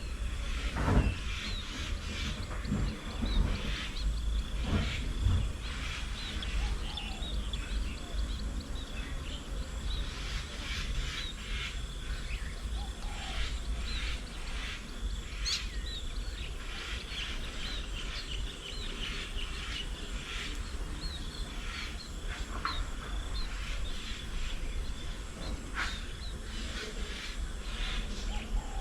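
Several birds chirping and calling outdoors, many short calls overlapping, with a few low bumps in the first few seconds.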